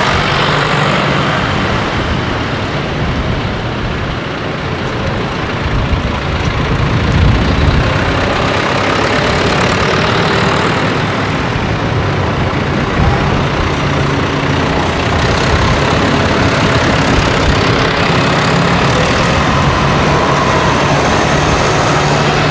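Farm tractors' diesel engines running steadily, a dense low rumble that swells briefly about seven seconds in.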